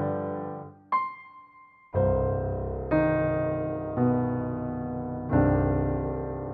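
Background piano music: slow chords, each struck and left to fade. There is a brief pause with a single high note about a second in, then a new chord roughly once a second.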